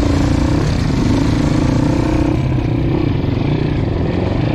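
Dirt bike engine running at steady revs, then easing off about two seconds in.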